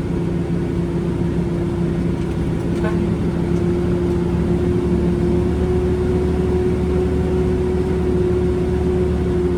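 Concrete mixer truck's diesel engine running at a steady speed, one unchanging hum.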